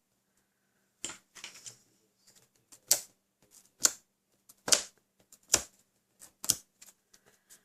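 Series of sharp taps and clicks, about one a second, with fainter scuffing of paper between them: foam dimensional adhesive pads being peeled off and pressed onto card stock on a tabletop.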